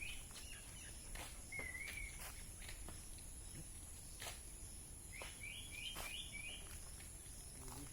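A bird calling outdoors: a quick run of four short rising chirps at the start and again about five seconds in, with a single wavy whistled note in between. A faint, steady high-pitched hiss runs underneath, with a few soft clicks.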